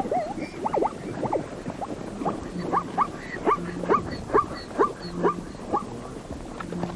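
An animal giving a string of short calls that sweep sharply up in pitch, about two a second, stopping shortly before the end.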